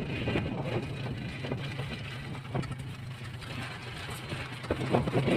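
A motor vehicle's engine running steadily, with rumble and road noise, heard from the vehicle as it drives.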